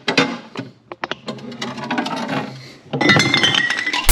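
Hard objects clattering and clinking over and over, denser and ringing for the last second or so.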